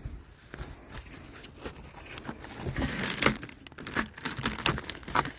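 Rotten, water-damaged floor wood and its membrane being torn away, with irregular cracking and crinkling that grows busier after about two and a half seconds.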